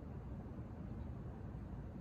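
Low, uneven rumble of wind buffeting the microphone, with no distinct events.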